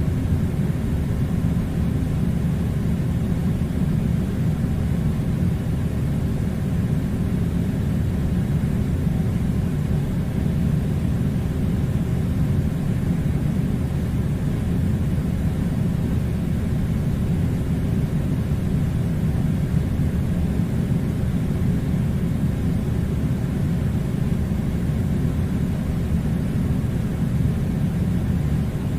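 Air conditioner running: a steady, even low rumble that does not change.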